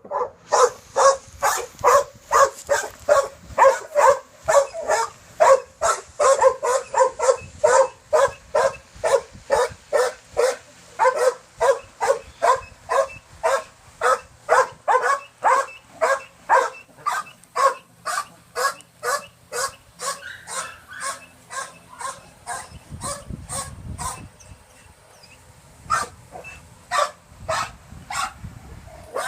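Dogs barking in a rapid, steady run of about two barks a second. The barks thin out and stop about three-quarters of the way through, then a few more single barks come near the end.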